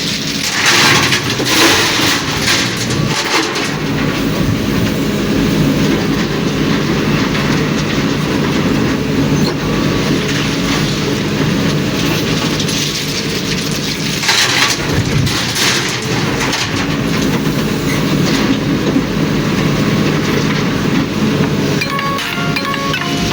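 Ashok Leyland tipper truck running on the road: a steady diesel engine drone with a constant clatter, and two louder rushing surges, one about a second in and one about fourteen seconds in.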